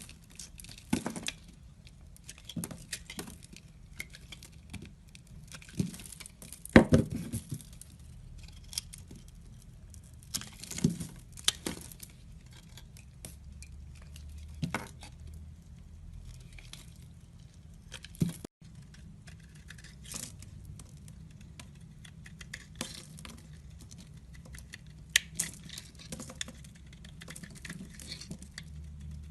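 Knife cutting and scraping a bar of soap: irregular crisp scrapes, crunches and taps, the loudest about seven seconds in.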